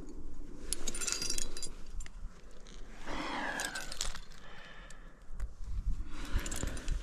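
Climbing gear jangling and clinking on a harness as the climber moves up the slab: metal carabiners and quickdraws knocking together in two clusters, about a second in and again near the end, with scuffing in between.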